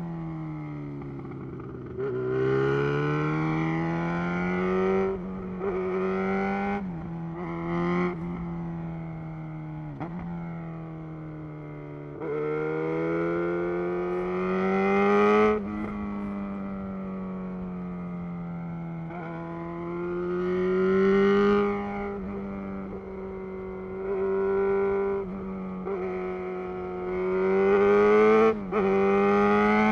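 Loud 2011 Yamaha XJ6 inline-four through a Black Widow full exhaust system, under way. It pulls up in revs four times, each pull cut off sharply as the throttle shuts or it shifts gear, with steady cruising in between.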